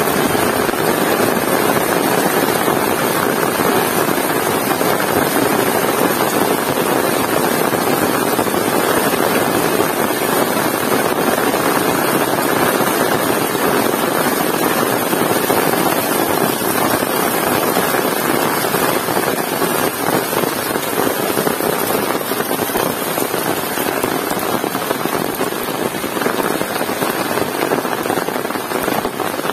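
Heavy rain falling steadily, a loud, even downpour with no let-up.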